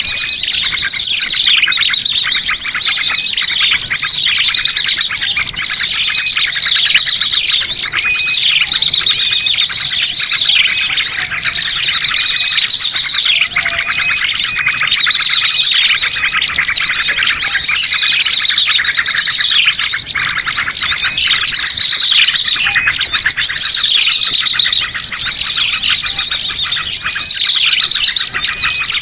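A dense, unbroken chorus of many small songbirds twittering and chirping, with fast repeated high-pitched notes and short sweeps. It is the kind of bird-lure ('master pikat') recording played to draw wild birds to a trap.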